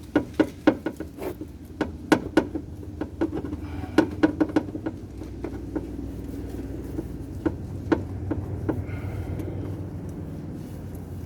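Sharp metal clicks and taps from a wrench and socket working the oil filter canister housing under a Porsche Cayman, coming in quick runs of about four a second and thinning out after about five seconds. A low steady rumble builds through the second half.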